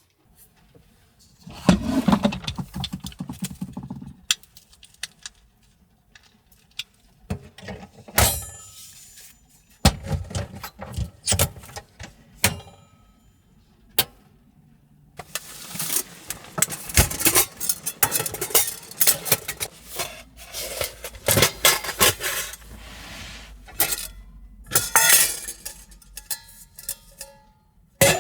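Irregular handling noises: rustling, clinks and sharp knocks in bursts, with quiet gaps between them.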